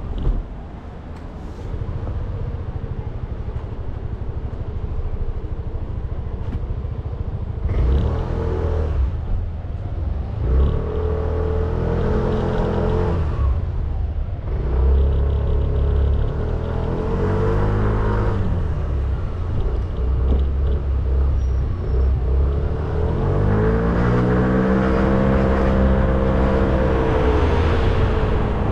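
Motorcycle engine running on the move, revving up and easing off four times as it accelerates, over a constant low rumble of wind on the microphone.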